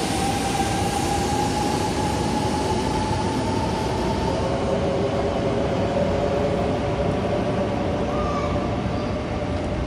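Shinkansen train pulling out of the station past the platform: its traction motors give a steady whine in two tones that slowly rise in pitch as it accelerates, over continuous running and wheel noise. The sound eases slightly near the end.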